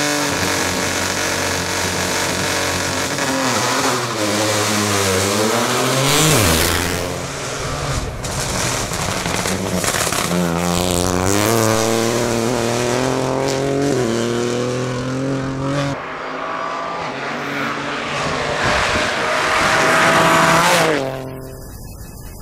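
Rally car engine revving hard and accelerating through the gears: its pitch climbs, drops at each upshift and climbs again. A final long rise, the loudest part, cuts off suddenly near the end.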